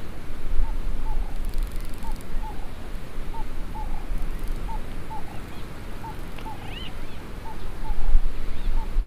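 A bird calling a short note over and over, mostly in quick pairs about once a second, over a steady low rumble.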